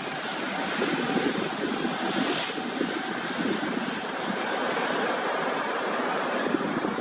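Airliner engines running with a steady, loud noise. Faint, short high chirps start near the end.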